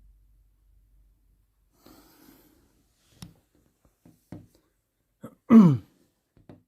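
A person's soft breaths and a few small clicks, then near the end one short, loud vocal sound falling in pitch.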